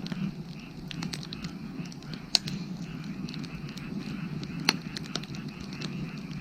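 Wood fire crackling, with small snaps throughout and two loud pops, about two and a half seconds apart. Frogs call steadily in the background.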